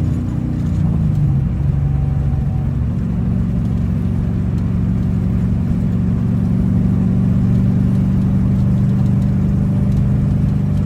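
A 7.0-litre (427 ci) LS V8 with individual throttle bodies running after its cylinder-head swap. The pitch shifts during the first few seconds, then holds a steady idle.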